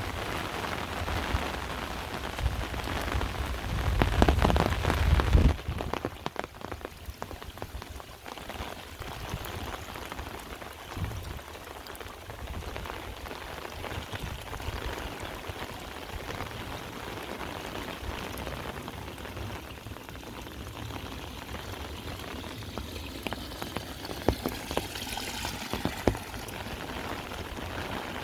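Heavy rain pouring down, louder with a low rumble for the first five seconds or so, then easing to a steady patter with scattered individual drops.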